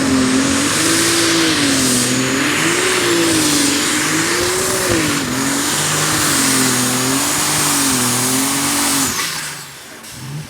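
Modified pulling tractor's engines running at full throttle during a pull, the pitch swinging up and down every second or two. About nine seconds in the engine note cuts away sharply, leaving a quieter low rumble.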